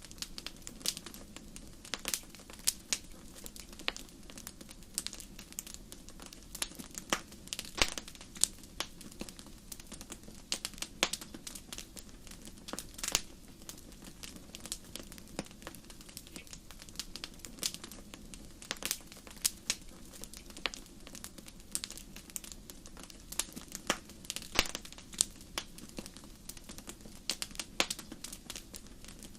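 Wood fire burning in a fireplace: irregular sharp crackles and pops, a few every second, over a faint low hiss of the flames.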